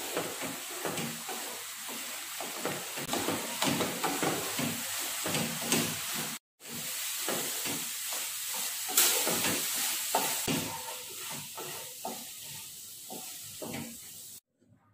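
Egg halwa frying and sizzling in a nonstick pan while a spatula stirs and scrapes it in quick strokes. The sound breaks off for a moment about halfway through and stops shortly before the end.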